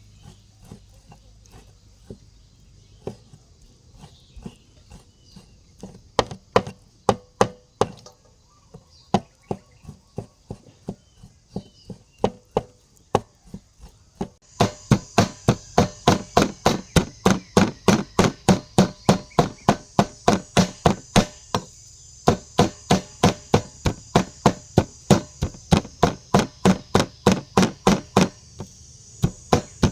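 Knife chopping food on a cutting board. Scattered strokes at first, then from about halfway a fast, even run of about three chops a second, with a short break about three-quarters through.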